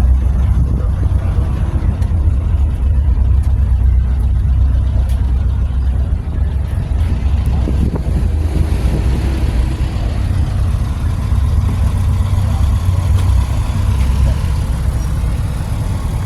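Car engines running with a steady low rumble, with a rise in hiss about halfway through as traffic passes.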